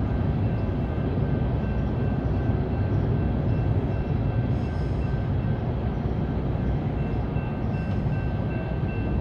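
Train running past, a steady heavy rumble of wheels on rail with a faint steady high whine over it.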